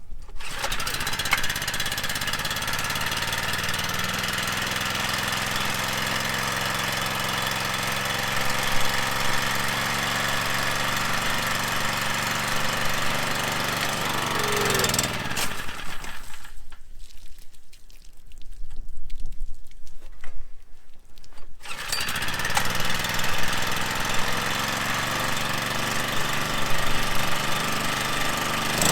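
Coleman Powermate pressure washer's small gasoline engine running steadily, its upper range dropping away for a few seconds past the middle before coming back.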